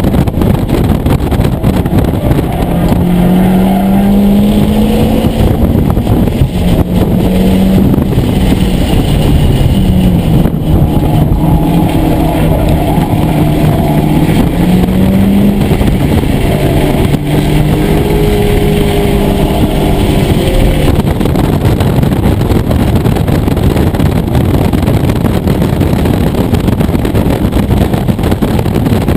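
Mitsubishi Lancer Evolution IX's turbocharged four-cylinder engine driven hard on track, heard from inside the cabin, its pitch rising and falling with throttle and gear changes over heavy road noise.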